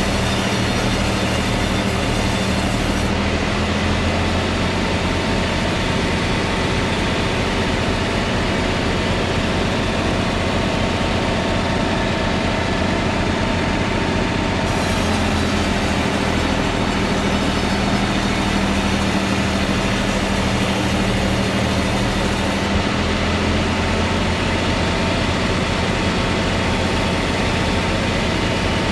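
Steady machine noise with a constant low hum and a faint higher tone, running unbroken at an even level.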